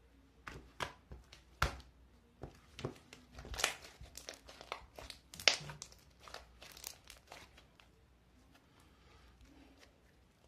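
Close handling noise: crinkling and crackling with a string of sharp clicks and taps through the first seven seconds or so, then only faint scattered rustles.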